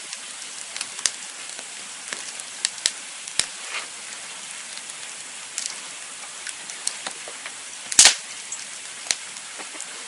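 Campfire burning with a steady hiss and irregular sharp crackles and pops, the loudest a double crack about eight seconds in.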